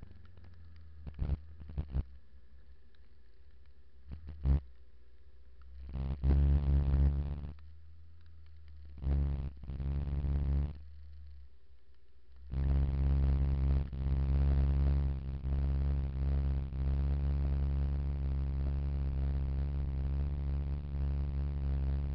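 A steady, low, fixed-pitch engine hum, most likely the motorcycle idling: it sounds twice briefly, then runs on evenly for the last ten seconds. A few sharp clicks come before it.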